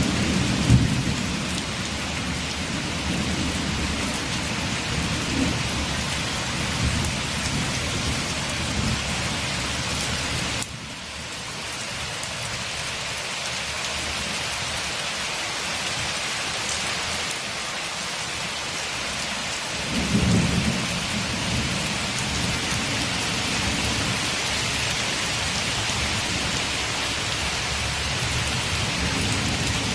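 Heavy rain falling steadily against a window, with low rolling thunder rumbling at the start and again about twenty seconds in. The low rumble cuts out suddenly about eleven seconds in and the rain drops a little in level.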